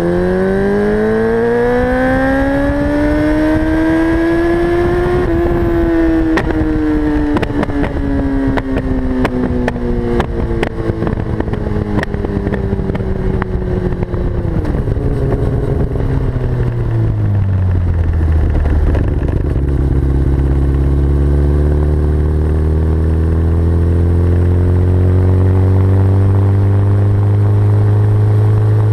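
Yamaha R6's four-cylinder engine through a full Akrapovic Evolution exhaust: the revs climb for about five seconds, then fall slowly with a run of sharp pops and crackles, backfiring on the overrun as the throttle closes, before it settles to a steady idle.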